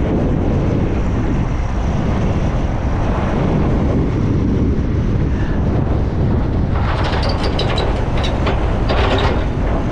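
Strong wind buffeting the microphone over a heavy truck's diesel engine running. From about seven seconds in come several sharp clanks with a brief ring.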